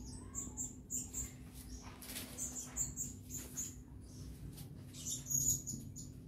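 Small birds chirping: quick high-pitched chirps in short runs, over a faint steady hum.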